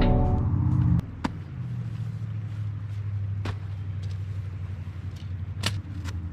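Background music fades out in the first second, leaving a motorcycle engine running steadily with a low hum, with a few sharp clicks over it.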